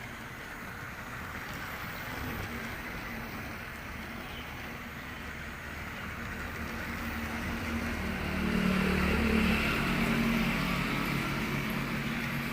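A motor running with a steady hum, growing louder about eight seconds in.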